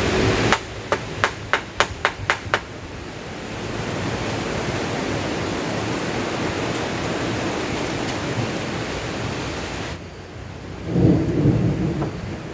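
Heavy rain falling steadily as a loud, even hiss. In the first two and a half seconds there is a quick run of about seven sharp knocks. About ten seconds in, the hiss cuts off abruptly and gives way to low rumbling surges.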